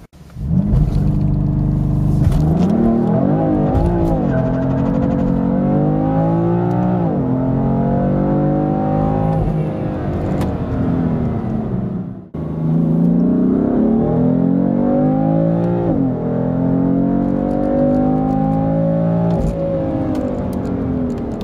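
BMW M3 F80's 3.0-litre turbocharged inline-six accelerating flat out through the gears of its seven-speed dual-clutch gearbox from a launch-control start. The engine note climbs and drops abruptly at each upshift. It cuts off suddenly about halfway, and a second full-throttle run through the gears follows.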